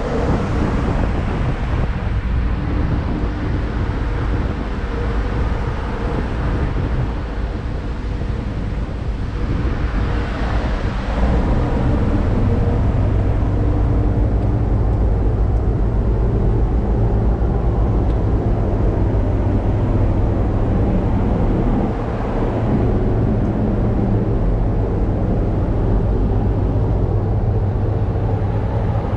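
Ship's engine-room machinery running: a loud, steady drone with a deep hum, growing louder about eleven seconds in.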